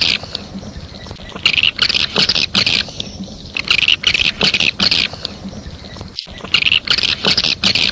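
Swiftlet calling sound played back as a lure: bursts of rapid high chirping and twittering, each about a second long, repeating every two to three seconds.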